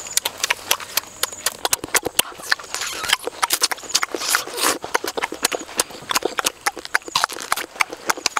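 Wet, close-up eating sounds: rapid lip-smacking and chewing clicks with a few short slurps as juicy fruit is bitten and chewed.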